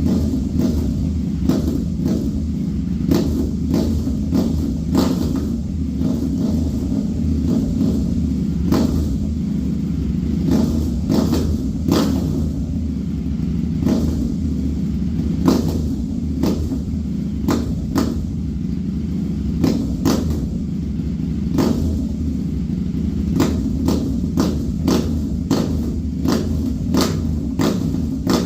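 KTM 790's parallel-twin engine running through a Black Widow aftermarket exhaust, a steady low rumble with no big revs. Short sharp cracks cut through it every second or so.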